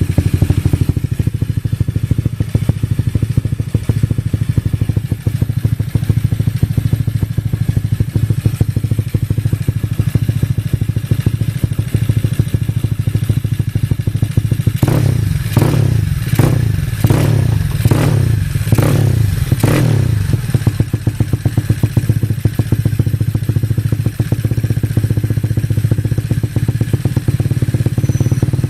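Yamaha Mio scooter's single-cylinder DOHC engine running steadily. Around the middle it gets a quick run of about seven throttle blips, each a brief sharp rise in revs.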